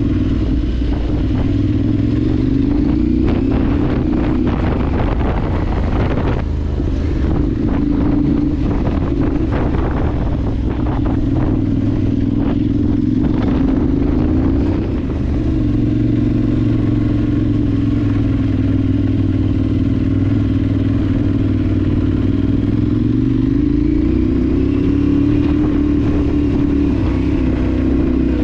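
Adventure motorcycle engine under way off-road, its note rising and falling several times as the rider works the throttle. Clattering and knocking from the rough ground and the bike's parts, heaviest in the first half.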